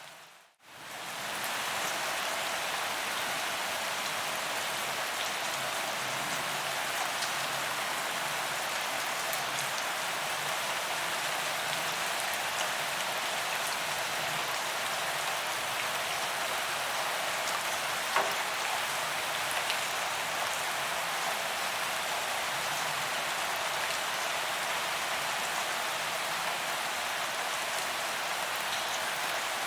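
Steady rain falling on a paved promenade, an even hiss of drops with scattered individual drop ticks. The sound dips out briefly just under a second in, then runs on evenly.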